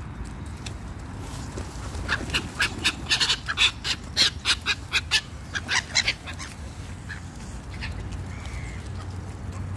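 Birds calling in a quick run of short, sharp notes, from about two seconds in to about six seconds in.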